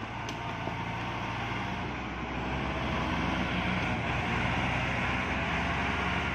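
Tractor diesel engine running steadily under way, growing slightly louder about three seconds in.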